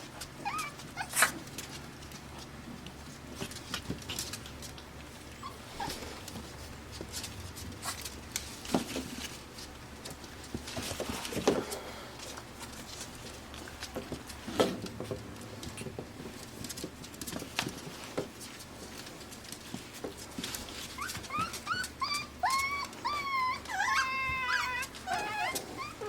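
Five-week-old Pembroke Welsh Corgi puppies whimpering and yipping, with a run of high whines near the end. Scattered short knocks and scuffles come in between.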